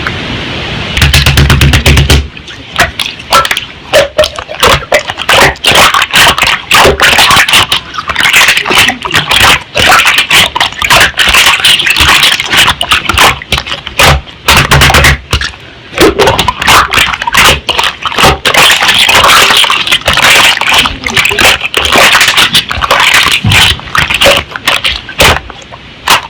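Slime being squished and pressed by hand, making a dense, irregular run of sticky clicks and crackles.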